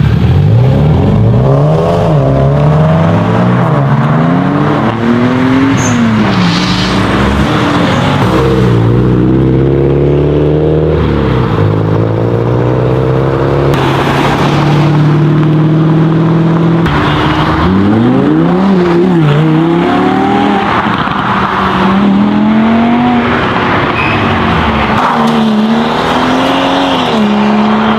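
Sports car engines revving hard and accelerating, their pitch climbing and dropping again and again as the revs rise and fall, with a few sudden breaks.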